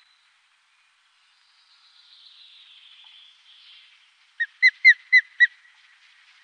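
Osprey calling: a quick series of five short, sharp whistled notes about four and a half seconds in, after a stretch of faint hiss.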